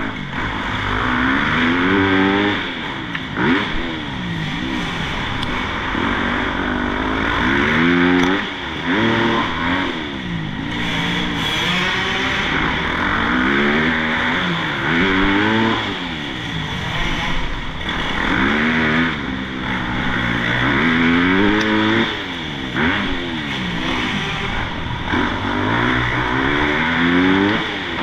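Motocross bike engine revving up and down over and over as it is ridden round a track. The throttle opens and closes every second or two, with the pitch climbing and dropping through the gears.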